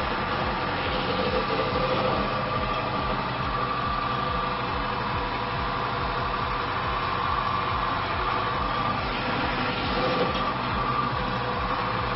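Friction test machine running steadily, its motor hum under a steady whine from the metal test parts rubbing together, lubricated with additive-treated oil that has water mixed into it.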